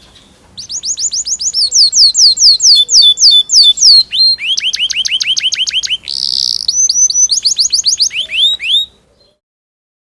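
Domestic canary singing in rolling trills: rapid series of repeated downward-sweeping high notes, switching to a lower-pitched series partway through, with a brief harsh buzzy note about six seconds in. The song starts about half a second in and stops abruptly near the nine-second mark.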